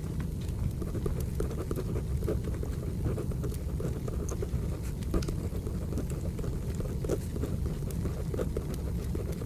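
Wood fire burning, with a steady low rumble and scattered sharp crackling pops. It is overlaid with short scratchy strokes of a pencil writing on paper.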